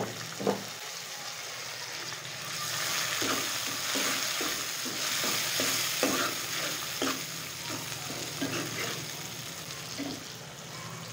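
Chopped tomato frying with browned onions in hot ghee in a metal karahi, sizzling louder about two and a half seconds in, while a steel ladle stirs and scrapes against the pan in quick repeated strokes.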